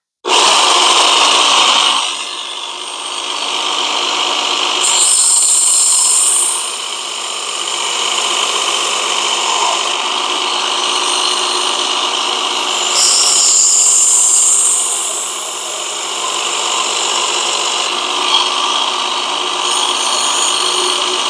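Work Sharp Ken Onion Edition electric belt sharpener switched on and running steadily while a Damascus steel knife blade is ground on the abrasive belt to put on a convex edge. Louder passes with a high grinding hiss come near the start, about five seconds in, around thirteen seconds and near the end.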